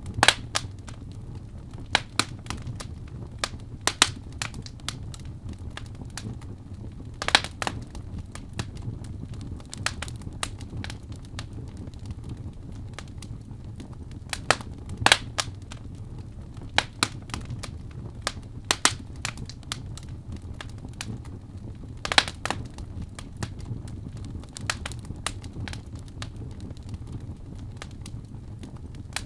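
Wood fire in a fireplace crackling, with sharp, irregular pops and snaps over a steady low rumble.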